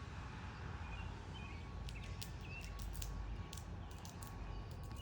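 Steady rain falling, with short bird chirps here and there and a scatter of sharp ticks from about two seconds in.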